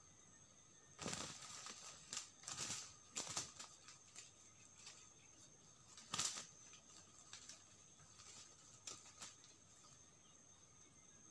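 Two roosters, a decoy and a wild red junglefowl, fighting on dry leaf litter: bursts of wing flapping and rustling from about a second in, a sharp loud one about six seconds in, then a few smaller scuffles. Steady insect trilling runs underneath.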